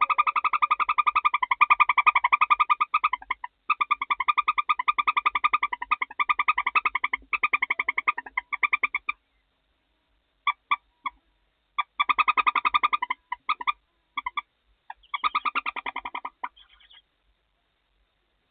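Barn owl in the nest box giving a loud, rapid chittering rattle in long bouts. After about nine seconds it breaks into shorter bursts, then stops about seventeen seconds in.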